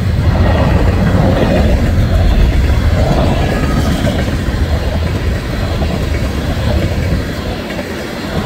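Tank cars of a long freight train rolling past at close range: the loud, steady sound of steel wheels running over the rails, easing a little near the end.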